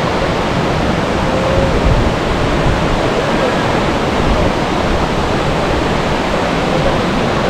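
Large waterfall pouring down: a loud, steady rush of falling water.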